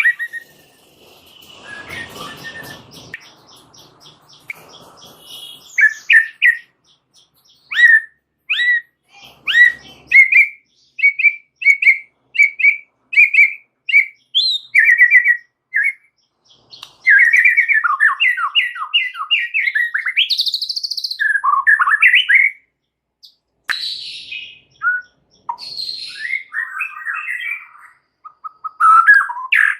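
A white-rumped shama (murai batu) singing. It gives a string of short, sharp whistled notes at about one a second, then a fast, rambling run of varied phrases that includes a rising whistle. This is the chattery, busy song that bird keepers call 'rewel' and 'full isian', meaning full of imitated songs.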